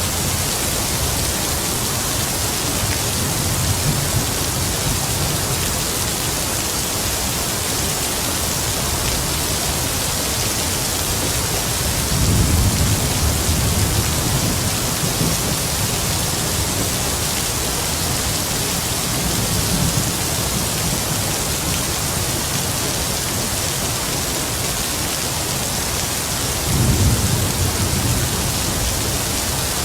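Heavy rain falling steadily with a constant hiss, while distant thunder rumbles low several times, loudest about twelve seconds in and again near the end.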